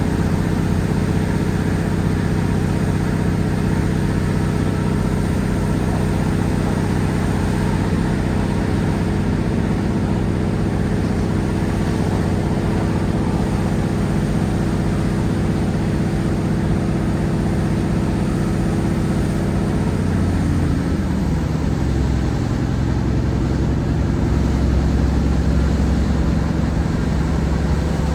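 Class 150 Sprinter's Cummins diesel engine working hard under acceleration, a loud steady drone. About twenty seconds in the engine note drops and settles lower, typical of the Voith hydraulic transmission changing from converter to coupling, with a deeper rumble afterwards.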